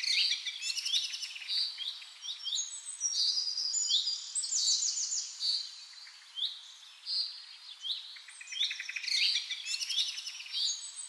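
Several songbirds singing at once: overlapping rapid trills and short, high chirping notes that sweep in pitch.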